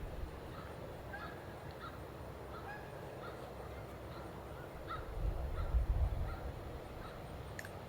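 Birds calling by a lake: many short, faint calls scattered throughout. A low rumble swells about five seconds in and fades again.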